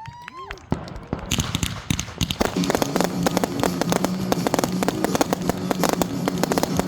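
Fireworks crackling: a fast, dense run of sharp pops that thickens about a second in, with a steady low hum coming in underneath partway through.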